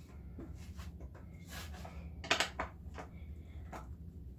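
A skateboard and a metal T-tool being handled: a short rustle and then a few light clicks and knocks a little past halfway, over a steady low hum.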